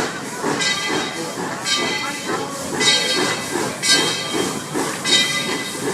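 Steam locomotive of a narrow-gauge railroad hissing in regular bursts, about one a second, like slow exhaust chuffs or steam being let off as it works.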